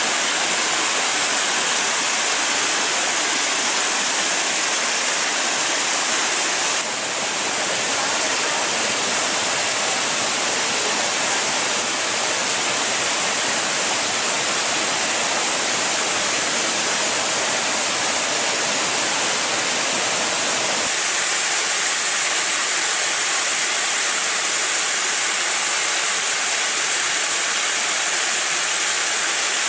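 Steady rush of water pouring from a small waterfall, a dense even roar that shifts slightly about seven seconds in and again about twenty seconds in.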